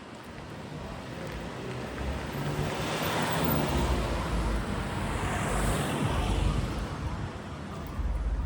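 A motor vehicle driving past on the street: its tyre and engine noise swells over a few seconds, peaks midway and fades, with a low engine rumble underneath.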